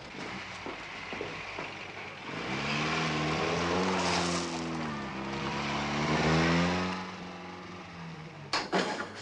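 A car engine running as the car drives off, its pitch rising and falling with the revs. A few sharp clicks come near the end.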